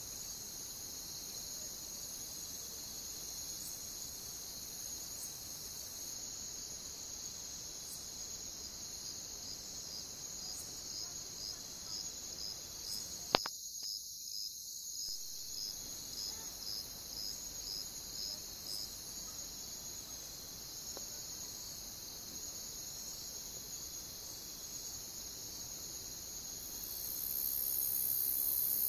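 Crickets chirping in a steady high trill. For about ten seconds midway one cricket chirps in a regular series, about two chirps a second, and a single sharp click stands out about 13 seconds in.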